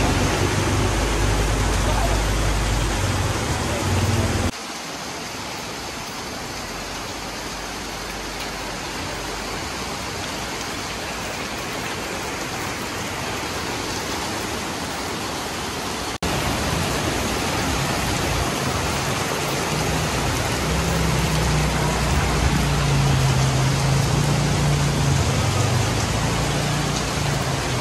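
Heavy tropical rain pouring onto a flooded street: a dense, steady hiss of rain and running water, with a low rumble under it. The sound drops abruptly and turns thinner about four and a half seconds in, then comes back louder, rumble included, about sixteen seconds in.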